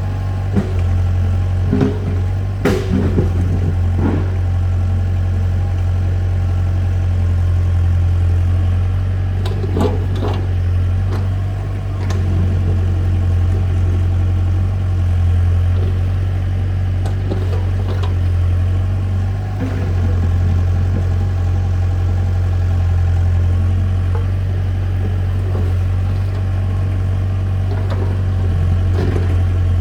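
A tractor engine running steadily at idle with a strong even hum, and short knocks and clatters now and then, a few of them close together about two to four seconds in.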